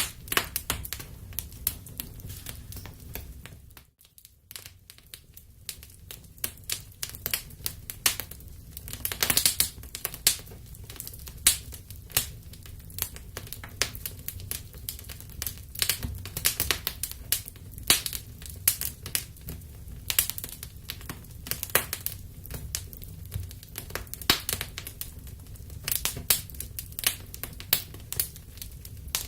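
Wood fire crackling in a fireplace: irregular sharp pops and snaps over a steady low rumble of burning. About four seconds in the sound briefly dips almost to silence before the crackling resumes.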